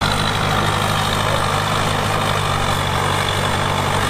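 Heavy diesel engine of earthmoving equipment idling steadily at an even pitch.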